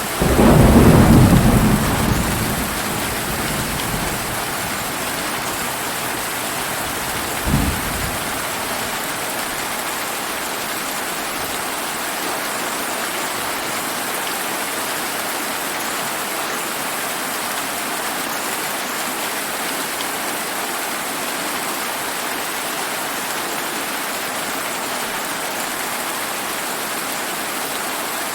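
Steady summer rain falling, with a loud roll of thunder that breaks right at the start and fades away over about three seconds, then a brief second rumble of thunder a few seconds later.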